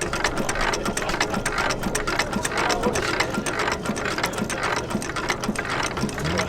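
Armstrong 6 hp cam wobbler hit-and-miss engine running, its valve gear giving a fast, even mechanical clatter over a soft low thud about twice a second.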